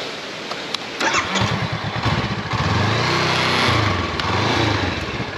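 Honda CB500X parallel-twin motorcycle engine starting about a second in, revving up twice, then settling back to idle.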